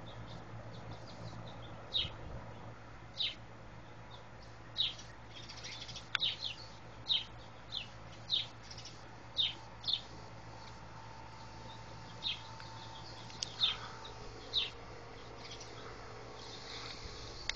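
A bird calling in short, sharp chirps that sweep downward, repeated every second or so with a short pause near the middle, over a steady low background hum.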